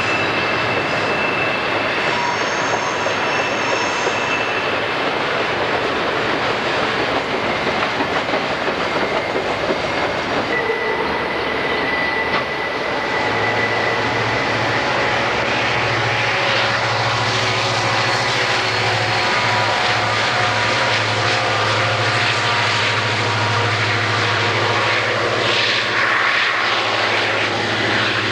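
Freight train on a mountain grade hauled by Conrail EMD diesel locomotives: a continuous rumble of the passing train, joined about halfway through by a steady low diesel engine drone that holds to the end as the locomotives come near.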